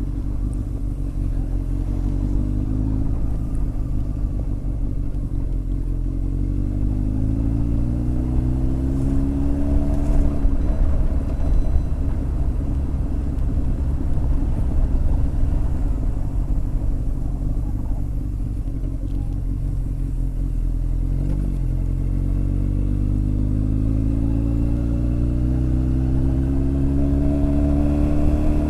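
Honda X4's inline-four engine under way on the road, pulling up through the revs twice, once in the first third and again near the end, with steadier running in between.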